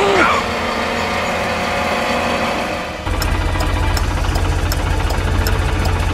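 Mini tractor engine running steadily. About three seconds in it changes to a louder, lower chugging, with light regular ticks over it.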